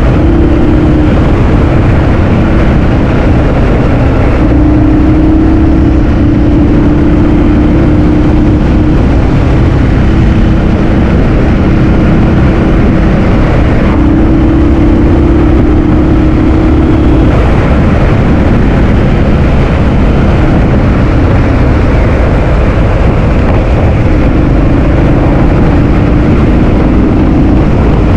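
Heavy wind noise buffeting the microphone on a moving scooter, loud and continuous, with a steady motor tone underneath that shifts in pitch several times.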